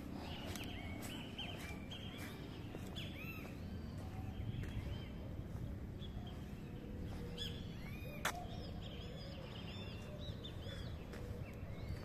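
Birds chirping: many short arched calls, repeating on and off, over a steady low background rumble. A single sharp click sounds about two-thirds of the way through.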